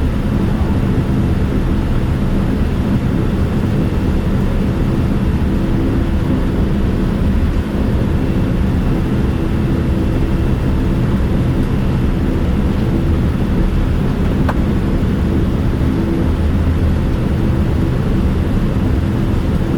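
Steady jet-engine and cabin noise heard from inside a Boeing 787-9 passenger cabin: an even low rumble with a few constant hums, unchanging throughout.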